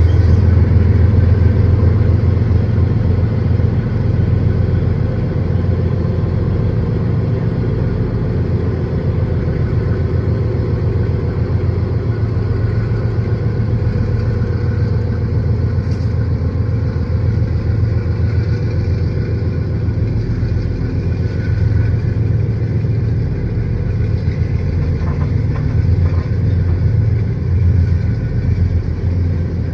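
Diesel-electric P class locomotives hauling a loaded grain train passing close by, engines running low and steady, then loaded grain hopper wagons rumbling over the rails.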